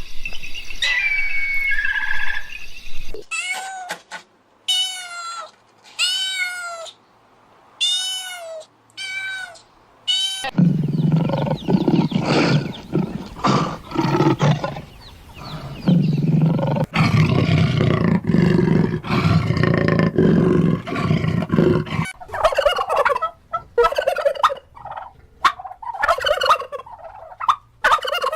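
Farm animals calling one kind after another. About three seconds in, a series of short calls that rise and fall in pitch, each separated by a pause. From about ten seconds in, a long, loud, dense stretch of deeper calls. From about 22 seconds in, quick high chirping calls.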